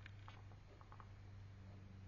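Near silence: room tone with a low steady hum and a few faint soft ticks.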